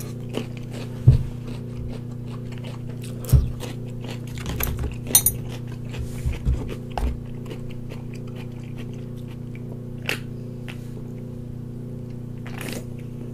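Close-up eating sounds: chewing a cube of pickled white radish, with scattered short clicks and soft knocks, over a steady low hum. Near the end comes a sip from a soda can.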